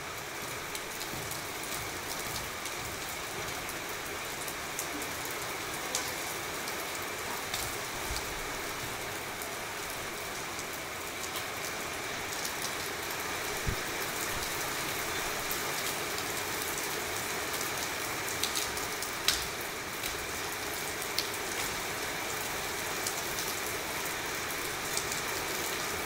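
Steady rain falling on a wet tiled rooftop terrace: an even hiss with scattered sharp ticks of drops striking close by.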